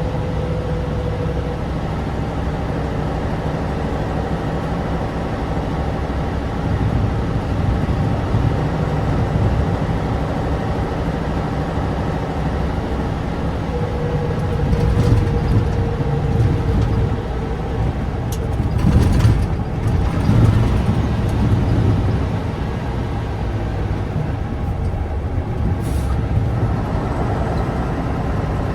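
Tatra 815's air-cooled, naturally aspirated V10 diesel running under way, a steady low drone that swells a few times and is loudest about two-thirds through. A few short clicks or rattles come in near the loudest stretch and again near the end.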